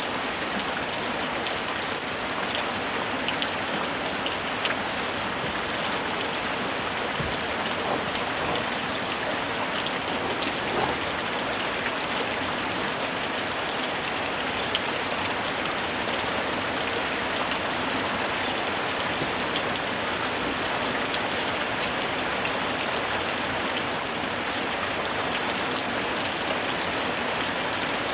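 Heavy rain drumming steadily on a tin roof, a dense even hiss with scattered sharper drop strikes.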